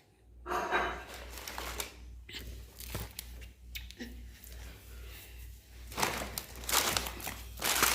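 Plastic shopping bag rustling and crinkling in irregular bursts as groceries are taken out of it, loudest near the start and again near the end, over a low steady hum.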